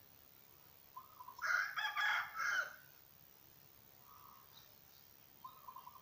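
A rooster crows once about a second and a half in, a loud call lasting over a second in three linked parts. A softer, lower short bird call repeats several times around it.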